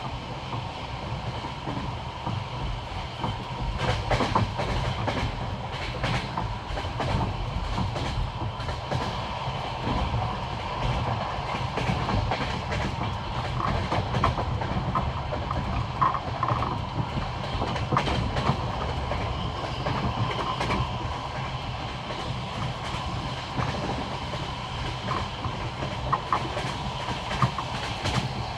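Passenger train carriage running on jointed rail track: a steady rumble with the wheels clicking over the rail joints in repeating clusters, the classic clickety-clack, and a few brief squeaks in the second half.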